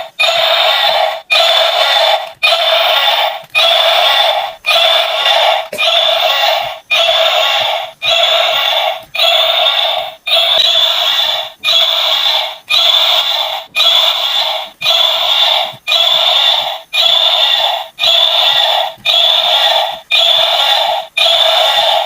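A battery toy's small speaker playing one short electronic sound effect over and over, about once a second, some twenty times, thin and tinny with no bass.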